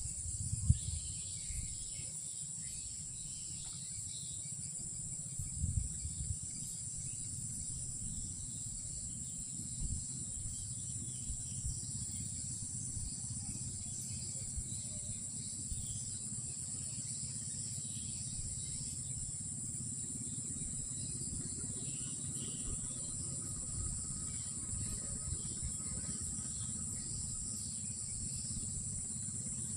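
Night insects keeping up a steady, continuous high-pitched trill, over a low rumble with occasional soft knocks.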